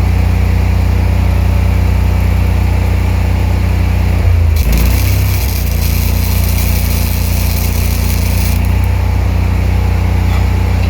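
Engine running steadily. About four seconds in, a spool-gun MIG welding arc strikes and hisses for about four seconds, and the engine note changes while it burns.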